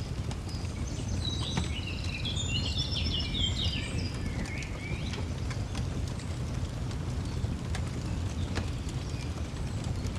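Fireplace crackling with scattered sharp pops over a steady low rumble. A songbird sings a rapid twittering run of short high notes from about one to five seconds in.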